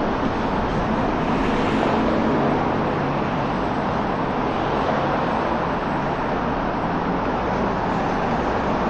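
Steady traffic noise on a busy city street: cars passing, tyres on the road and engines running. A low engine hum from a passing vehicle stands out for a few seconds near the start.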